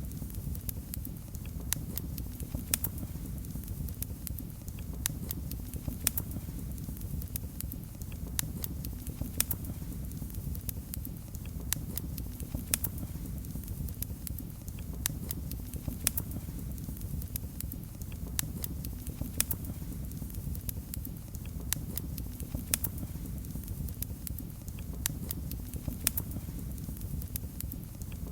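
Fireplace fire crackling: frequent irregular sharp pops and snaps, a few louder than the rest, over a steady low rumble of the flames.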